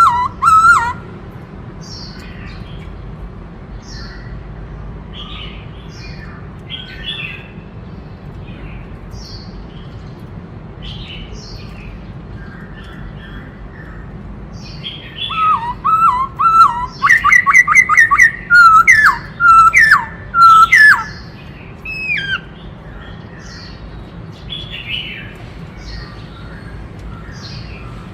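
White-cheeked laughingthrush singing: a loud burst of song at the very start, then scattered soft chirps, then a long loud run of rapid, sliding whistled notes in the middle, fading back to soft chirps near the end. A steady low hum lies underneath throughout.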